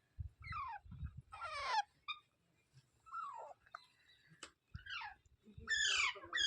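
Rose-ringed parakeets calling: a series of about six short, screechy calls, each sliding down in pitch, the loudest two near the end. Soft low bumps in the first second and a single click midway.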